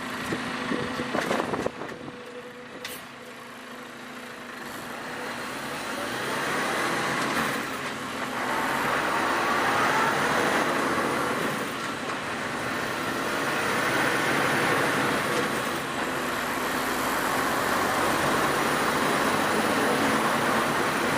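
Road traffic noise from a moving vehicle: steady tyre and engine noise that swells and eases, with a few sharp clicks in the first few seconds.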